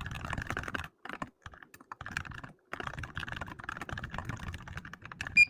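Typing on a computer keyboard: quick runs of key clicks broken by short pauses. Right at the end a work timer starts to beep.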